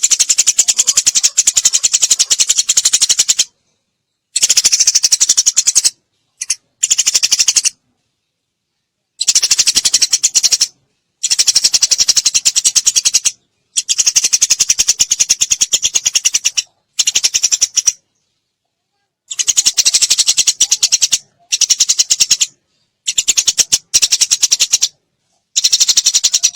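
Eurasian tree sparrow chattering in fast, rapid-fire runs of sharp chirps, many to the second. The runs come in bursts of one to three seconds, broken by short silences.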